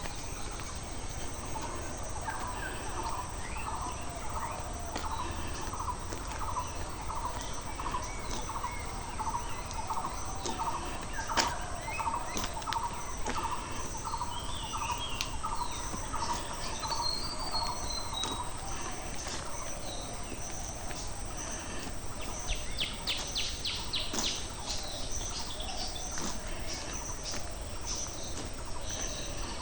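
Countryside ambience of birds and insects. One bird repeats a short low note about twice a second for most of the first twenty seconds, while other birds chirp, and a fast run of chirps comes in a little past twenty seconds, all over a faint steady insect trill.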